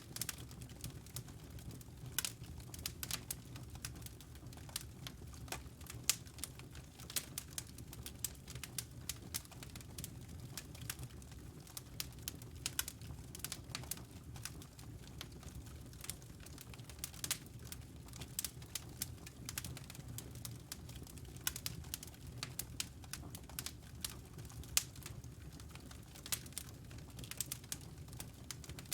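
Wood fire burning in a fireplace: dense, irregular crackling and popping of burning logs over a low steady rumble of the flames.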